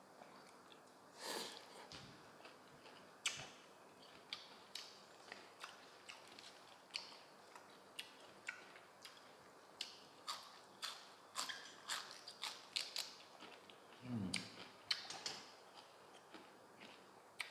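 Close-miked eating sounds: a string of sharp crunches and wet mouth clicks from chewing raw celery stalk and shredded papaya salad, coming faster in the second half. A brief low vocal sound near the end.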